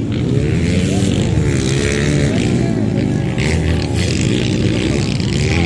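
Dirt bike engines revving up and down, several rising and falling in pitch over a steady loud drone.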